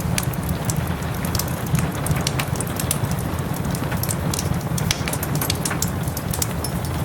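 Steady rain together with a wood fire crackling in frequent sharp pops, over a low rumble.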